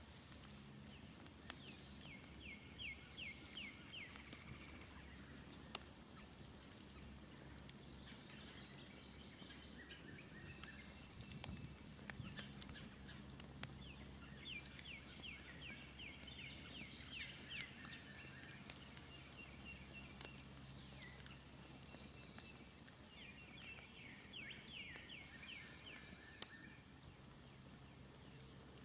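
A songbird sings three quick trilled phrases of rapidly repeated notes, with pauses between them. The faint snap and tick of a smouldering campfire crackles throughout.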